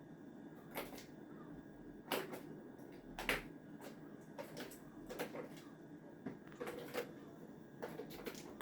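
Irregular clicks and knocks of a kitten playing, about ten light impacts at uneven intervals, the loudest two about two and three seconds in, over a steady low room hum.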